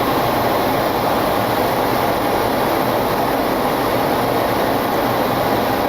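Steady rushing cabin noise in a Boeing 727-200 cockpit in flight on approach, from air rushing past the airframe and the ventilation, with no change throughout.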